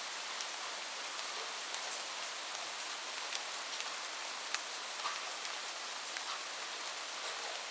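Steady rain falling on a roof: an even hiss with individual drops ticking sharply here and there.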